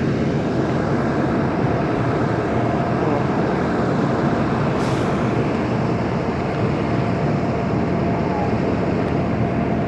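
School bus running steadily, a continuous low engine noise with a faint steady tone above it and a brief click about five seconds in.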